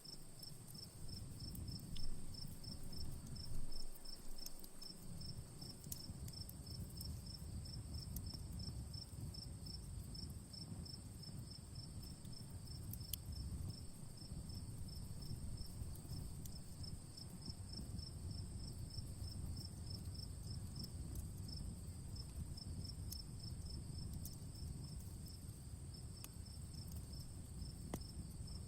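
Crickets chirping in a rapid, even pulse over a steady high insect drone, with an outdoor wood fire burning underneath as a low steady rumble and a few sharp crackles.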